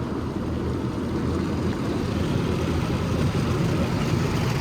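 Automatic car wash working over the car, heard from inside the cabin: a steady low rumble of water spray and washing gear on the bodywork, slowly getting louder.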